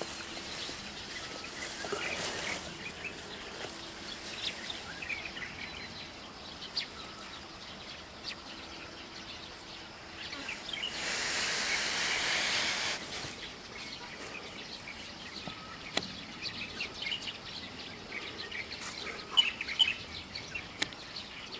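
Small birds chirping here and there over a steady outdoor background, with a louder rush of noise lasting about three seconds midway and a few sharp clicks near the end.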